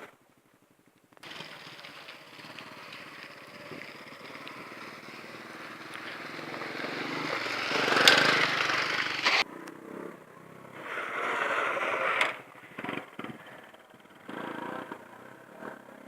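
Motorbike engine running, growing steadily louder to its loudest about eight seconds in, then cut off suddenly; after that it comes in uneven bursts.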